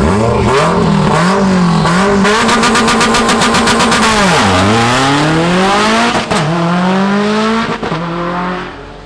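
Race car engine revving hard. Its pitch climbs, wavers and crackles rapidly, then drops sharply about four and a half seconds in before climbing again. It fades out near the end.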